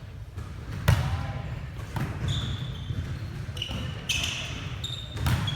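Volleyball being struck and hitting the court during play: a sharp slap about a second in, then three more. Short high squeaks from sneakers on the gym floor come in between.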